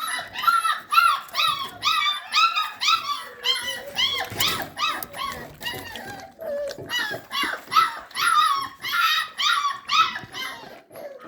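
Puppies yelping and whining in quick, high-pitched cries, about three a second, with a short lull about halfway through.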